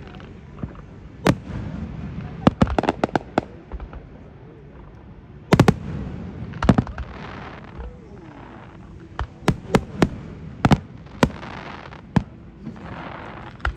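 Fireworks display: sharp bangs of bursting shells, some single and some in quick clusters, with crackling hiss after several of them.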